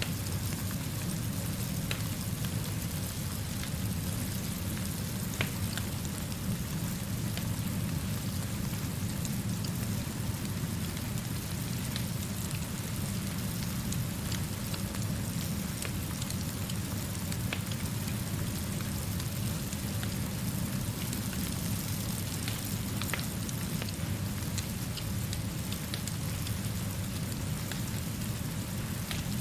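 Steady rainfall with an even low rumble beneath it and a scattering of small sharp pops, typical of a gently burning fire's crackle mixed with the rain.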